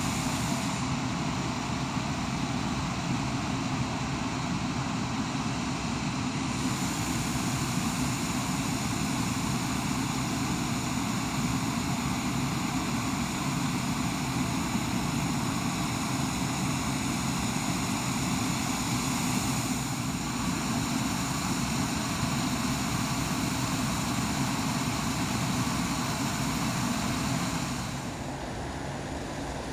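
Steady aircraft engine noise, dropping in level near the end.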